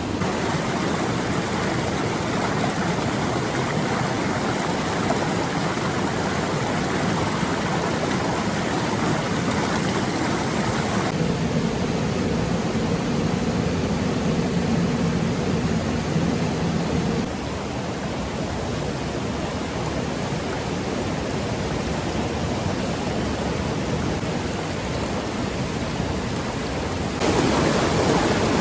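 Steady rush of flowing floodwater and rain, with the sound shifting abruptly three times as the shots change.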